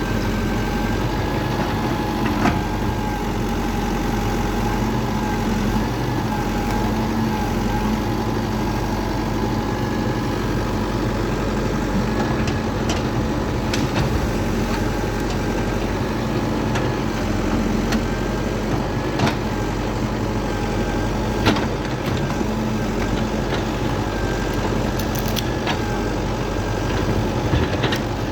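A machine or engine running steadily, with a constant hum and whine, and a few sharp knocks or clicks scattered through it.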